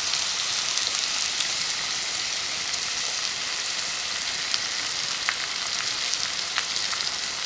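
Eggs frying in hot oil in a pan on a bed of onion-tomato masala: a steady sizzle with occasional small crackles.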